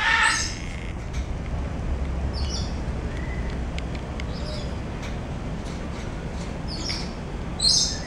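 Short high-pitched bird chirps, a handful of them, loudest right at the start and again just before the end, over a steady low background rumble.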